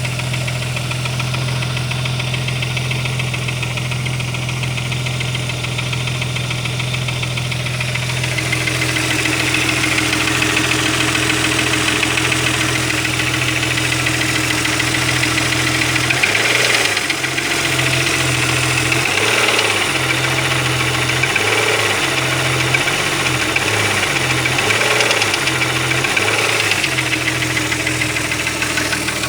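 Opel Omega B engine running with a knock that the owner puts down to the camshaft. About halfway through, the engine speed rises and falls several times.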